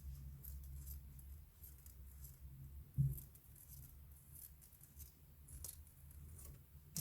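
Faint small metallic clicks and rustles of a Vostok 2414A watch mainspring being let uncoil by hand out of its barrel, with one louder knock about three seconds in, over a low steady hum.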